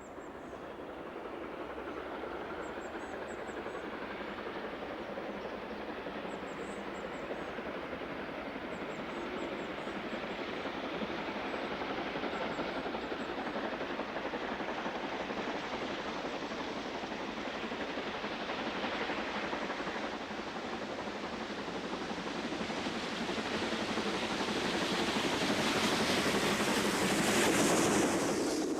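Steam train approaching, a steady rumble and hiss that grows louder and is loudest near the end.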